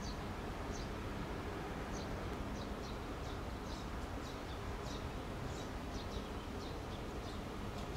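Small birds chirping in short, high, quick notes, about a dozen at irregular intervals, over a steady low outdoor rumble.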